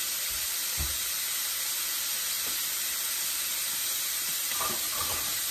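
Chicken and vegetable stir fry sizzling in a wok, a steady hiss, with a soft knock about a second in.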